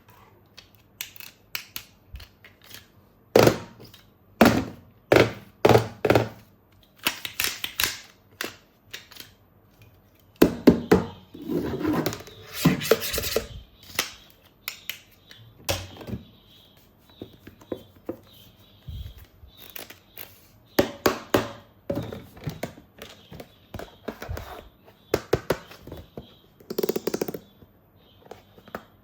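Hard plastic toy parts being handled: a string of sharp clicks and knocks, with stretches of rustling as pieces are moved and packaging is handled.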